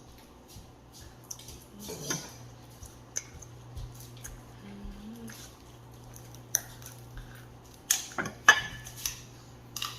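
Scattered clicks and clinks of cutlery against dishes during eating, loudest in a cluster about eight to nine seconds in, over a faint steady hum.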